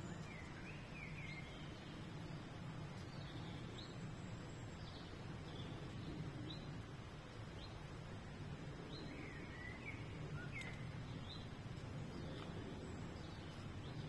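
Small birds chirping in scattered short calls, clustered near the start and again about two-thirds of the way through, over a steady low background rumble.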